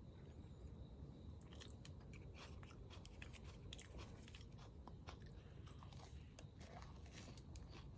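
Faint close-up chewing of something crunchy, likely chicken gizzard: a string of small, irregular crunches over a low, steady background rumble.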